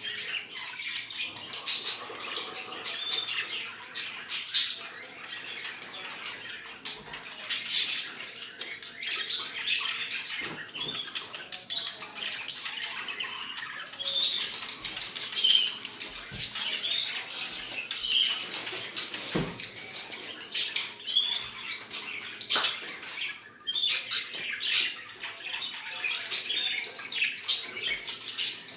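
A flock of budgerigars chattering and squawking: many short overlapping chirps and calls, with louder squawks now and then.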